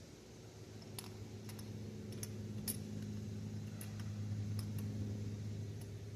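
Scattered light clicks and small rattles of a plastic knock sensor wiring harness and its connectors being handled and pushed into place, over a steady low hum.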